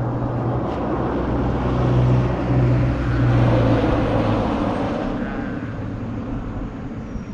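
Motorcycle engine running at a steady note under wind and road rush while riding. The engine hum eases off and the noise fades over the last couple of seconds.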